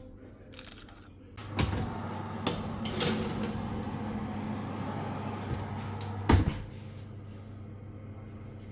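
Kitchen noises: a few sharp knocks and clicks, with a steady motor-like hum and rushing noise running for about five seconds that stops with a louder knock.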